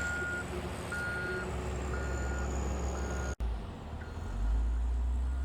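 Backup alarm beeping about once a second over the steady rumble of diesel engines, with a faint high whine; the sound cuts out for an instant about three and a half seconds in, and the beeps are fainter after it.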